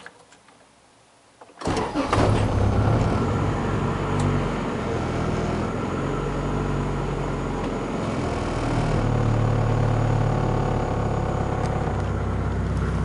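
Turbocharged 1996 Acura Integra GSR engine cranking briefly and catching about a second and a half in, flaring up, then settling into a steady idle.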